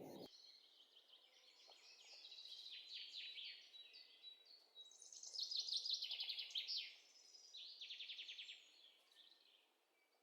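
Small birds chirping faintly in the background: a string of short, rapidly pulsed trills and chirps, loudest around the middle.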